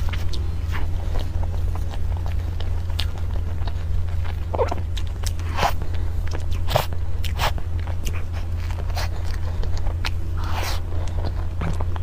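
Close-up eating sounds of a person chewing soft cream puffs: scattered wet mouth clicks and smacks, with a longer smeared slurping sound near the end, over a steady low hum.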